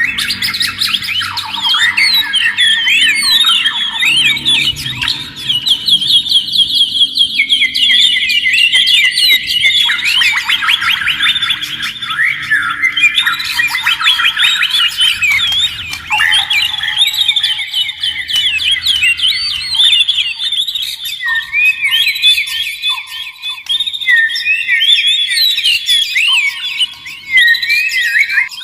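Oriental magpie-robin and white-rumped shama singing without a break: fast, varied whistled phrases, glides and chirps, with short repeated lower notes in the later part.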